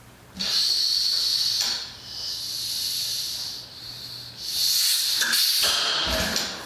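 Aerosol can of ether starting fluid spraying with a loud hiss in several spurts, priming the engine for starting. Low thumps come in near the end.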